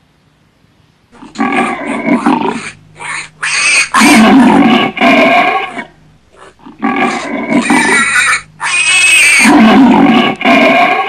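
Loud animal calls in two similar series of several pitched cries each, the pitch bending up and down, with a short break about six seconds in.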